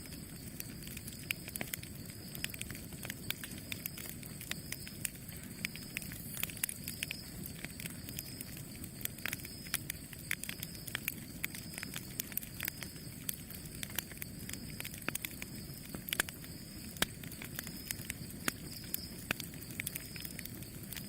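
Wood fire burning steadily with frequent sharp, irregular crackles and pops over a low rumble of the flames.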